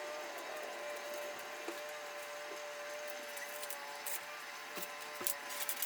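Faint steady hum of room tone with a few light taps and clicks of small parts being handled on a workbench.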